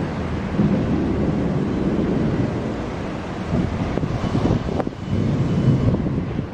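Wind buffeting the camera's microphone, a low rumble that swells and fades in gusts, with a brief click near the end.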